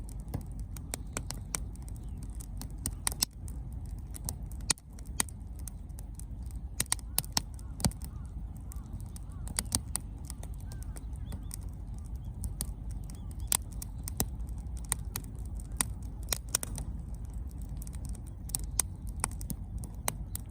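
Wood bonfire burning, with irregular sharp crackles and pops from the burning wood over a steady low rumble.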